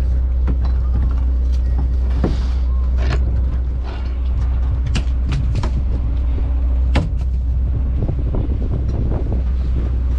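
A bottom trawler's engine running with a steady low drone. Sharp knocks and clatters come at irregular moments over it, the loudest about seven seconds in.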